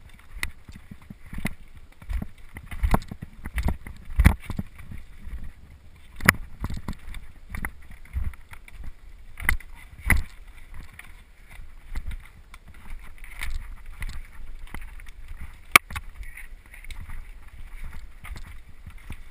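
Mountain bike being ridden over rough trail: a low rumble with irregular knocks and rattles as the bike jolts over bumps.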